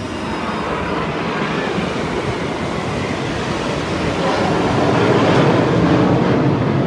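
Aircraft engine noise, a steady rush that grows louder as the plane approaches.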